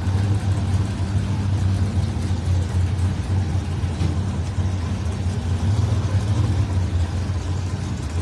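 High-powered drag race car engines running at idle with a steady low drone, waiting to stage before a pass.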